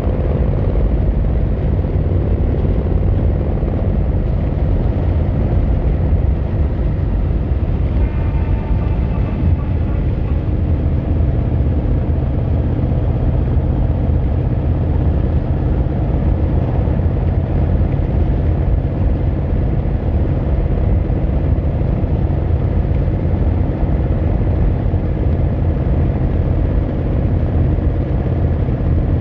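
Yamaha XVZ1300 Royal Star's V4 engine running steadily, heard through its exhaust.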